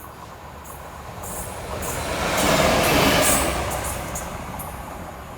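Train passing on the railway line: a rushing noise that swells to a peak about halfway through and fades away again.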